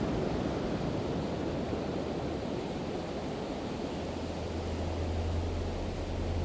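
Ocean surf washing steadily on the beach, a deep even rush. About four seconds in a low steady drone joins it.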